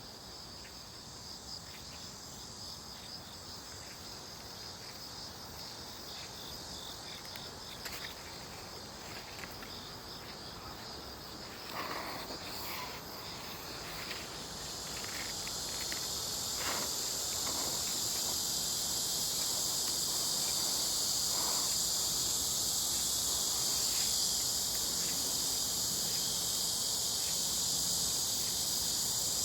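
Chorus of insects chirring steadily at a high pitch, growing louder about halfway through, with a few faint rustles.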